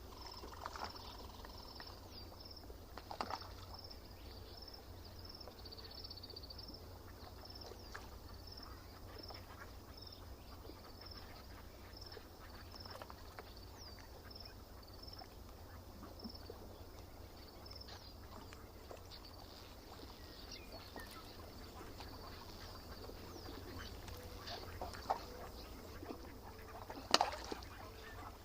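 Lakeside birds at dawn: a small bird repeats a short high note every second or so for most of the stretch, over a faint, steady low rumble. A few louder, lower waterbird calls come in, the loudest near the end.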